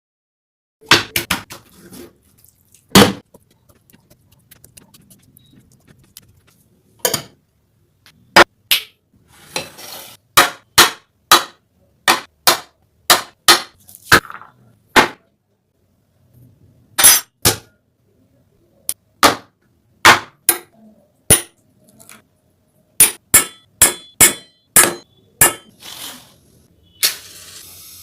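Knife chopping on a cutting board: sharp, separate knocks, roughly one to two a second, with a few short pauses.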